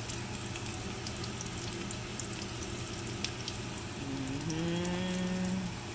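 Shrimp fritters shallow-frying in hot oil in a pan: a steady sizzle with scattered small pops. About four seconds in, a voice hums a held note for nearly two seconds.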